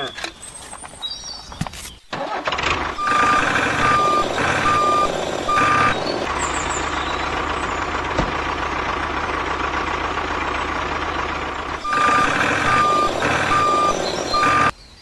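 Truck engine running with a reversing alarm beeping, two runs of about four beeps: a few seconds in and again near the end. The sound cuts off suddenly just before the end.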